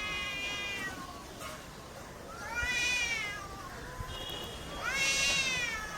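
A cat meowing: three drawn-out calls, each rising and then falling in pitch.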